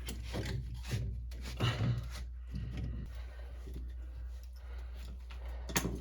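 Rubbing and irregular clicks as a sump pump check valve and PVC discharge pipe are handled and fitted together, with one sharper click near the end. A steady low hum runs underneath.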